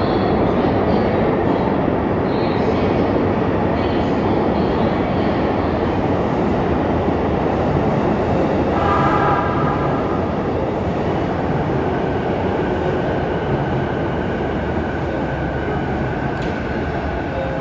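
Electric commuter train running alongside the platform: steady, loud wheel-on-rail rumble and running noise. A brief high squeal comes about nine seconds in, and the sound then slowly eases.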